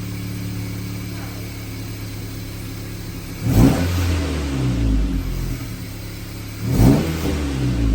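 2024 Acura Integra's turbocharged four-cylinder idling through an aftermarket PRL front pipe, blipped twice, about three seconds apart, each rev rising sharply and falling back to idle.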